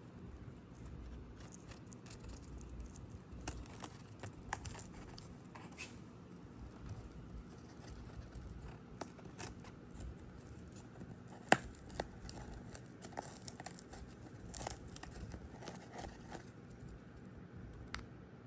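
Indian ringneck parrot shredding cardboard with its beak: scattered small tearing and snapping sounds, with one sharp snap about two-thirds of the way through.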